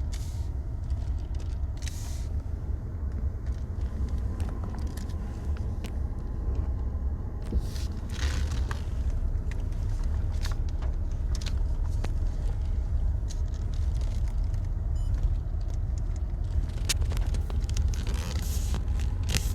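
Car driving slowly, heard from inside the cabin: a steady low rumble, with scattered small clicks and ticks.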